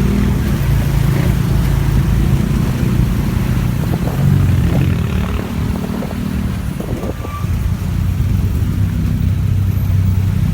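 Motorbike engine running steadily while riding through traffic, its pitch shifting a little with the throttle.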